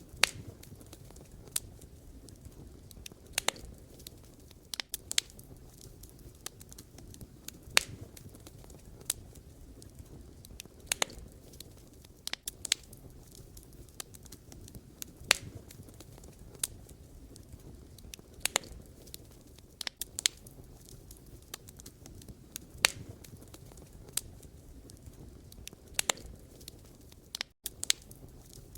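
Wood fire burning: a steady low rumble of flames with irregular sharp crackles and pops from the burning firewood, a few louder snaps scattered through.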